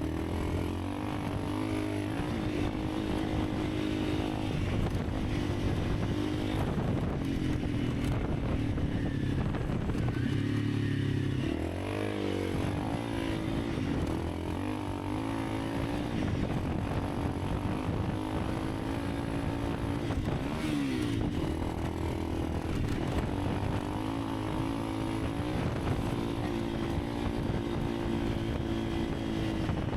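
Honda CRF300 Rally's single-cylinder engine running as the bike is ridden, over a steady rushing noise. The engine note dips and climbs again about twelve seconds in and once more about twenty-one seconds in.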